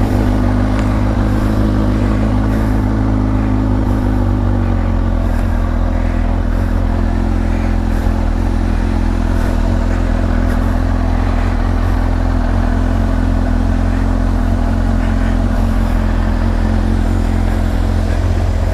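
Motorcycle engine idling steadily just after being started, its note shifting slightly about four to five seconds in.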